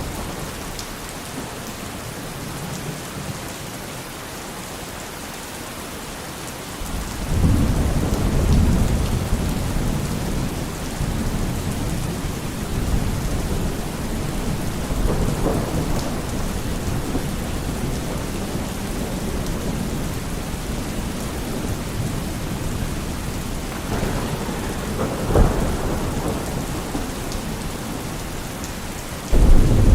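Steady rain falling, with thunder: a low rumble swells in about a quarter of the way through and keeps rolling, a sharper peal comes near the end, and another loud clap starts just before it finishes.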